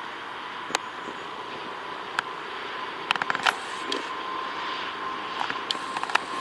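Airbus A380 turbofan engines at takeoff: a steady rushing noise with a steady whine. Sharp clicks break through it, one at a time early on, then a quick cluster about halfway and several more near the end.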